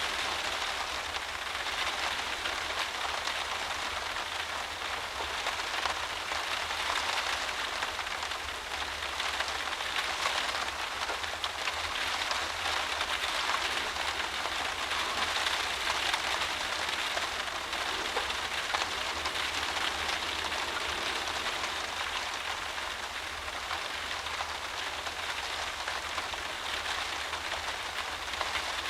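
Heavy driving rain beating on a windowpane, heard from indoors: a dense, steady hiss with many drops landing at once.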